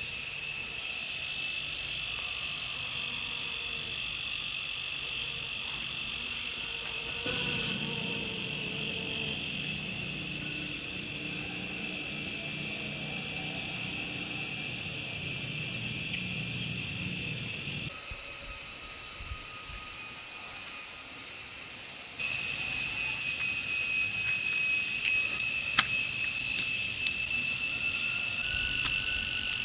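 A steady, high chorus of chirping insects. It drops away abruptly about two-thirds of the way through and returns a few seconds later.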